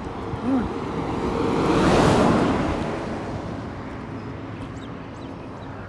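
A vehicle passing close by, its rushing noise swelling to a peak about two seconds in and then fading, over a steady background rumble.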